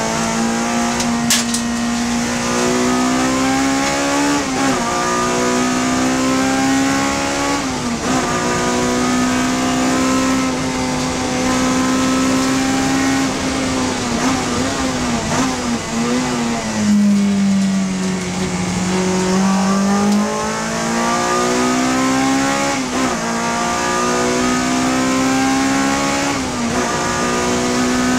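Honda Civic FD2 race car's four-cylinder engine at high revs, pulling through the gears with upshifts about four and eight seconds in. It eases off and downshifts midway, runs lower for a few seconds, then accelerates again with two more upshifts near the end.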